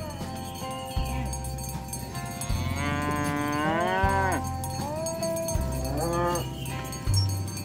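A cow mooing: one long moo that rises and then falls in pitch a little before the middle, and a shorter moo later, over background music with a steady bass line.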